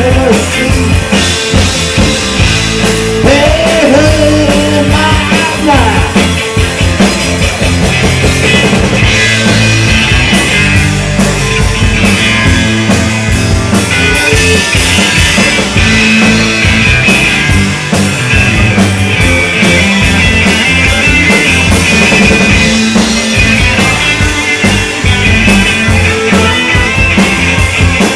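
Live rock band playing loudly, with a drum kit keeping a steady beat and guitars.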